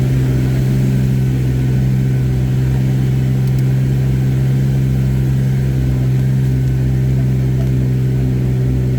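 Jeep engine running steadily as it crawls along an off-road trail, a constant low drone heard from inside the cab.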